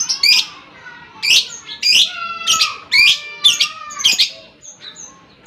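Lovebird giving a series of loud, harsh, high-pitched screeching calls, about one every half second, with a few faint short chirps near the end.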